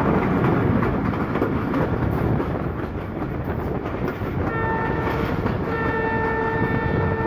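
Passenger train running fast, its wheels rumbling and clattering on the track, heard from an open carriage door. About four and a half seconds in, the locomotive's horn starts a long steady blast, with one brief break about a second after it begins.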